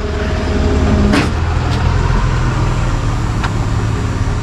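Tow truck engine idling, a steady low hum, with a few short clicks over it.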